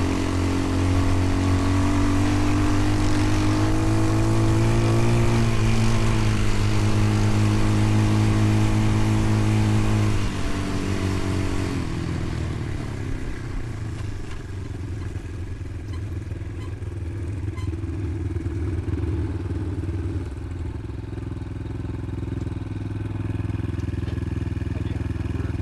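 Dirt bike engine running on the throttle with its pitch creeping up, then backing off about ten seconds in and running lower and quieter for the rest.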